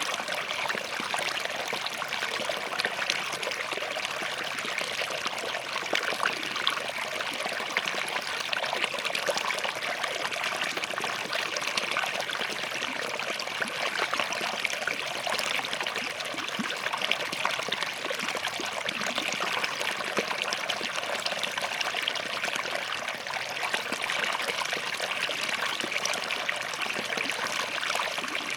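Small forest stream flowing steadily over and between rocks, with a continuous splashing, trickling rush.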